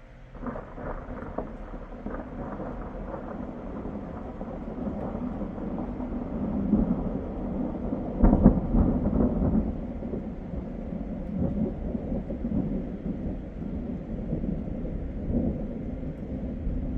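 Thunder: a long roll that breaks in with crackling about half a second in, builds to its loudest crash around eight seconds in, then rumbles on.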